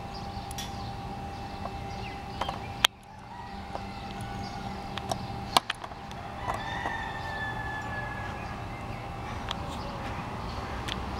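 Tractor motor running steadily, with a few sharp clicks. About halfway through a bird gives one long, slightly falling call over the hum.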